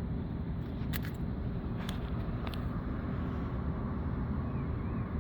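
Steady low outdoor rumble, with a few sharp clicks about one, two and two and a half seconds in.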